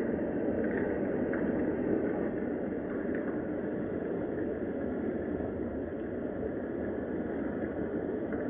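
Steady rain, an even noise that does not let up, with a few faint drip-like ticks.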